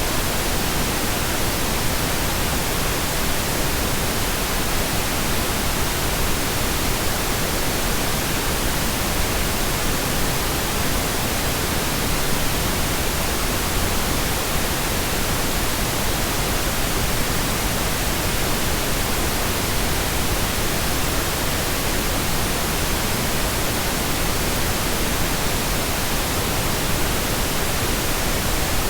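Steady, unbroken pink noise: an even, full-range hiss with no change over time.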